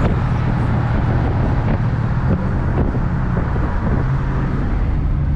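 2004 Honda Civic coupe's engine running steadily, with road noise.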